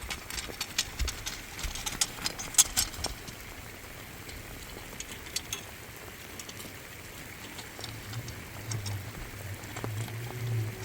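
Light rain pattering, with scattered sharp taps and clicks over a steady hiss, thickest in the first few seconds. A low pulsing hum comes in near the end.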